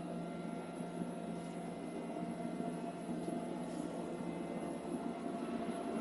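iClebo Omega robot vacuum cleaner running, with the steady whir of its suction motor holding one even pitch.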